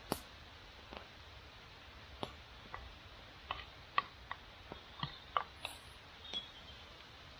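Wood fire crackling, with about a dozen irregular sharp pops and snaps.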